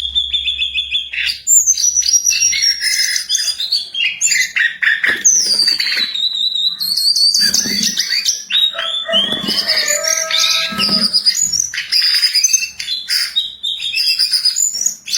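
A jongkangan bird singing busily: a continuous, varied stream of whistled glides, warbles and chirps, with a few fuller, lower-pitched notes mixed in.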